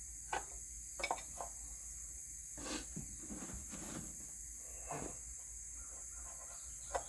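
Faint, scattered clicks and short scrapes of metal being handled as the oil drain plug is put back into a Farmall Cub tractor's oil pan, over a steady high hiss.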